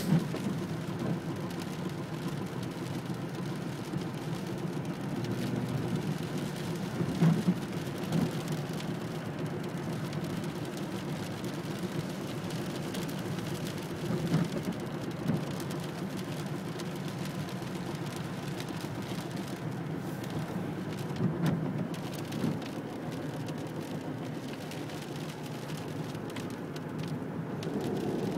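Steady rain with a low, even rumble underneath and a few brief louder knocks.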